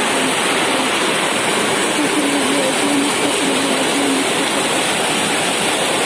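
Heavy hailstorm: hail and rain coming down hard in a loud, steady, unbroken hiss. A faint voice is heard in the middle of it.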